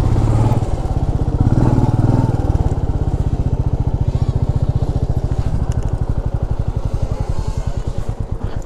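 Royal Enfield Meteor 350's single-cylinder engine running under way at low speed, its exhaust beat a steady, rapid, even thud. The note is a little louder in the first two seconds, then settles.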